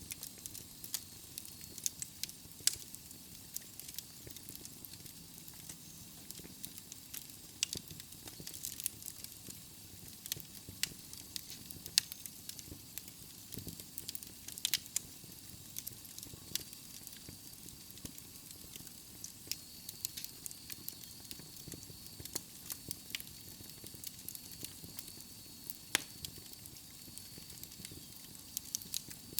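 Wood logs burning in a fireplace, crackling with frequent irregular sharp pops over a soft steady hiss. A faint thin high whistle joins in about halfway through.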